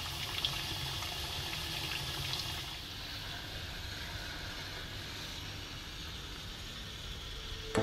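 Potato and sabudana kababs sizzling steadily as they deep-fry in oil, a little softer after about three seconds.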